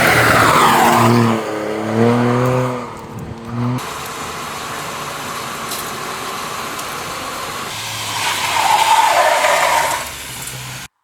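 Lancia Ypsilon HF Racing rally car's engine and exhaust: the engine note falls steeply in pitch, then gives a few short revs. After an abrupt change it becomes a steadier rush of car noise that swells again near the end and cuts off suddenly.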